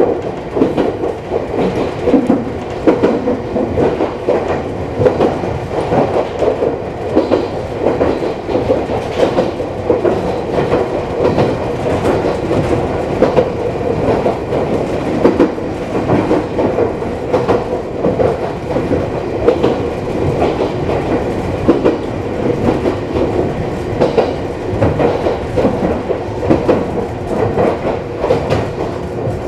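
Iyo Railway electric train running on the Yokogawara Line, heard from inside the front of the car: wheels clacking over the rail joints over a steady hum.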